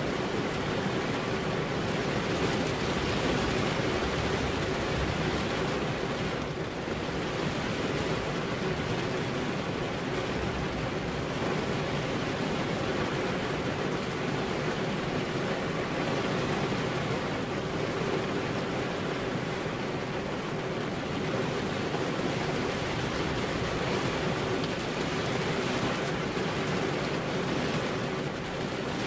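Steady rain falling, an even, unbroken hiss of many drops with no single impacts standing out.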